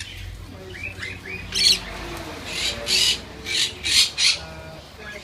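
Parrots calling: a few short chirps about a second in, then a run of about six loud, harsh squawks.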